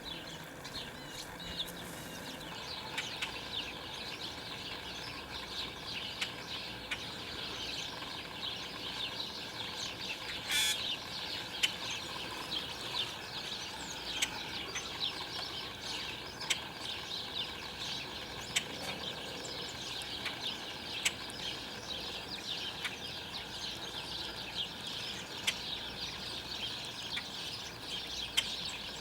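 Songbirds calling, a dense chatter of many short chirps, with one louder, harsher call about ten seconds in.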